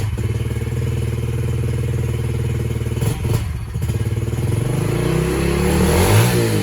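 Yamaha TTR-110's small single-cylinder four-stroke engine idling steadily on its stock carburettor, then blipped near the end, its pitch climbing and wavering. The owner says this carb still bogs at quarter throttle even when warm, not taking the fuel. A couple of short knocks sound about three seconds in.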